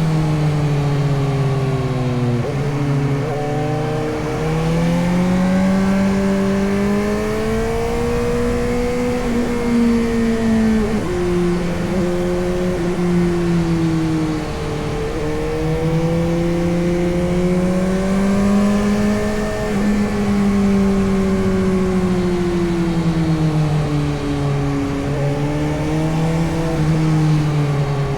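Suzuki GSX-S750's inline-four engine under way, its revs climbing and falling through the gears, with sudden drops at gear changes about two and a half seconds and eleven seconds in. Wind rushes steadily behind the engine.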